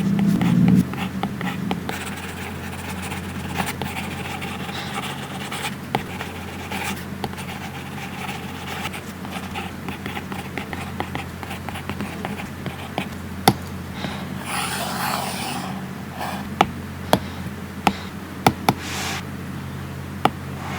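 Stylus tapping and stroking on an iPad Pro screen covered with a matte paper-like protector: scattered sharp ticks, with longer scratchy strokes past the middle and near the end, over a steady low hum.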